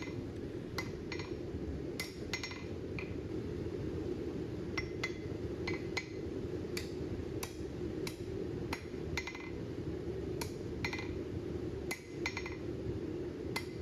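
Blacksmith's hammer striking a bent steel bar on the anvil to straighten it: about twenty sharp, ringing blows at an uneven pace, some in quick pairs, over a steady low hum.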